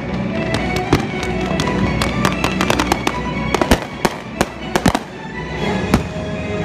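Professional aerial fireworks going off: a rapid string of sharp bangs from bursting shells and salutes, with crackling, thickest from about two to five seconds in. Music plays steadily underneath.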